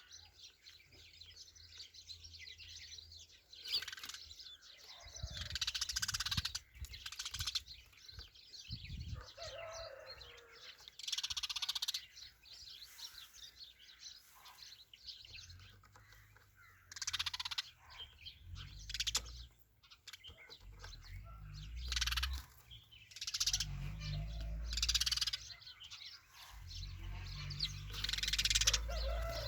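Sparrow chirping in many short, separate bursts, with a low rumble on the microphone through the second half.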